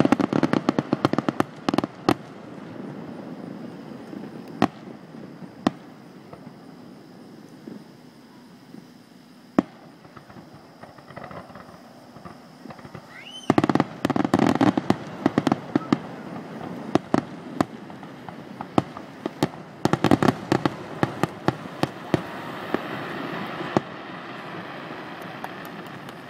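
Fireworks grand finale: aerial shells bursting in rapid, dense volleys of sharp bangs at the start, again about halfway through and once more later on, with scattered single bangs between.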